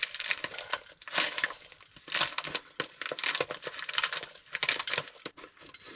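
Plastic soup-mix bag crinkling and rustling in the hands as it is pinched and squeezed, in irregular bursts of crackle.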